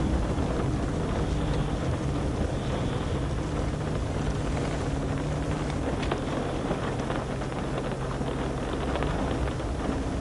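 A vehicle engine running with a steady low hum, under a constant rushing noise.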